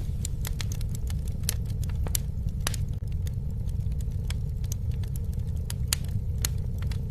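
Campfire crackling: scattered sharp pops and snaps at an irregular few per second over a steady low rumble of the flames.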